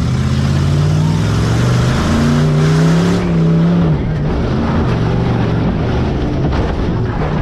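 Stock-class tough truck's engine revving hard under acceleration, its pitch climbing for almost four seconds, then dropping sharply and holding a lower note as the driver backs off.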